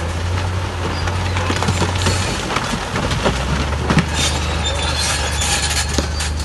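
Heavy earthmoving machine's diesel engine running steadily under rocks clattering and knocking as they tumble and break, the clatter thickest in the second half. The engine note drops a little after about two seconds.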